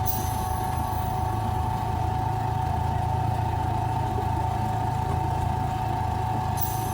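Miniature ride-on zoo train running at a steady pace: a constant engine hum with a steady whine over it.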